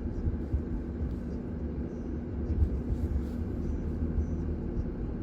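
Heavy truck's engine running steadily, a low even rumble with a constant hum.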